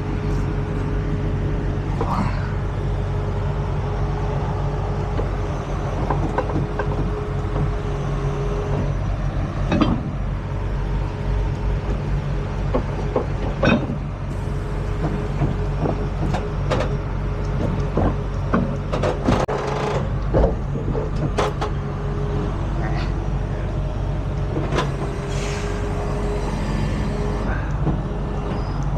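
Heavy diesel truck engine idling steadily, with scattered metal clanks and knocks from towing gear being fitted.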